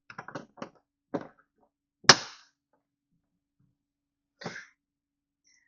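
Pry tool levering at a truck's interior door panel: a few light clicks, then one sharp snap about two seconds in as a plastic panel fastener pops loose, and a brief scrape near the end.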